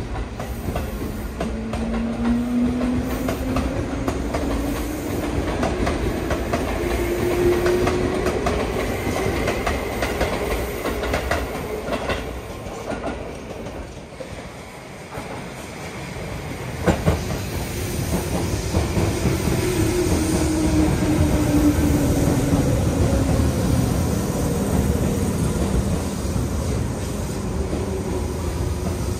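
Tobu Railway electric train running, with a rising traction-motor whine over the first several seconds as it gathers speed and wheels clacking over rail joints. There are sharp knocks about 12 and 17 seconds in, and a second motor whine later that falls slightly in pitch.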